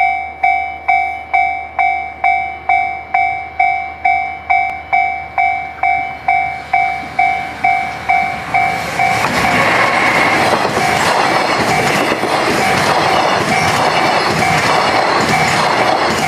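Japanese level-crossing warning bell ringing about twice a second, each ding fading. About nine seconds in, a JR Freight EF210 electric locomotive and its container wagons pass close by, and the loud noise of wheels on rail, with steady clicking over the rail joints, all but drowns the bell.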